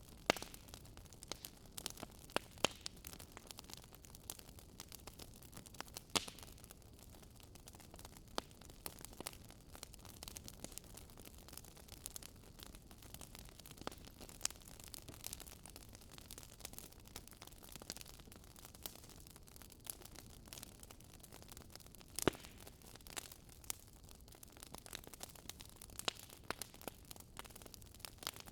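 Fire crackling in a fireplace: irregular small pops and snaps over a soft, low rumble, with a few louder snaps here and there.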